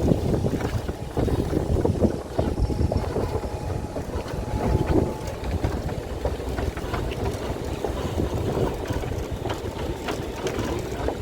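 Steady rumble of an open-air tram driving along, with wind buffeting the microphone.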